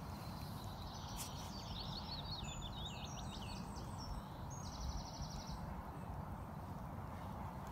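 A songbird singing a quick, complex phrase of high glides and notes that ends in a rapid trill about five seconds in, over a steady low rumble of wind on the microphone.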